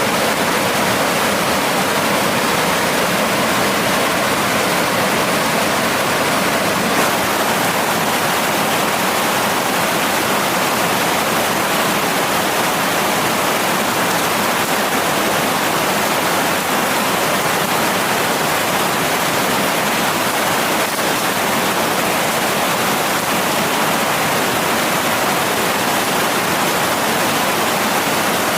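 Mountain stream rushing: a loud, steady wash of running water.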